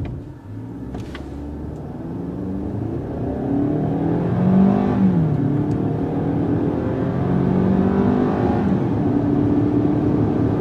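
Turbocharged four-cylinder engine of a Hyundai Santa Fe Sport accelerating hard, revs climbing, then dropping at an upshift about five seconds in, climbing again and then holding steady.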